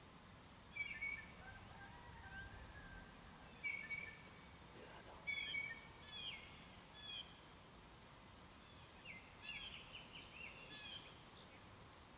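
Birds calling faintly: short high chirped notes in several bursts, the busiest run near the middle and another near the end.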